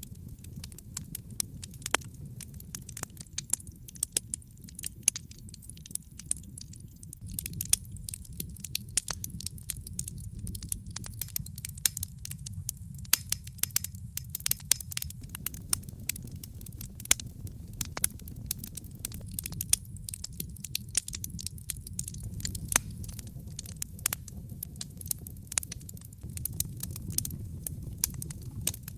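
Wood fire burning in a fireplace: many sharp crackles and pops, dense and irregular, over a steady low rumble of the flames.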